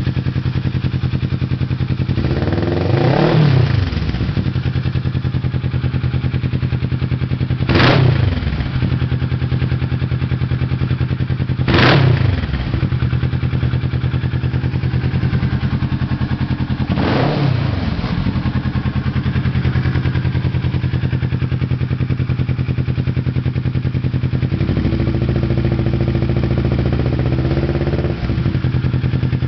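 Kawasaki Ninja 650R's parallel-twin engine idling through a Two Brothers aftermarket exhaust. It is blipped four times in the first twenty seconds, each rev rising sharply and dropping straight back to idle. Near the end it is held a little above idle for a few seconds.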